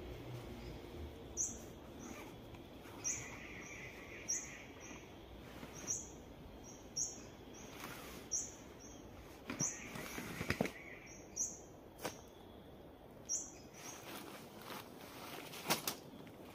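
A small bird repeating a short, high-pitched call about once every second or so, each note followed by a fainter second note. Over it come rustles and sharp clicks of a backpack being unpacked and a ground sheet being handled, busiest in the middle and near the end.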